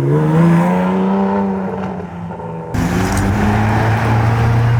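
High-performance car engines in two edited clips: the first revs up and then holds a steady pitch, then a hard cut about two-thirds of the way through to a second engine running at a steady, lower pitch.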